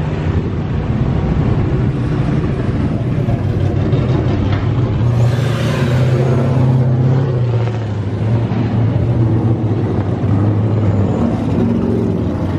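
Drift car engines running and revving loudly, their pitch shifting, with a rush of hissing noise about five seconds in.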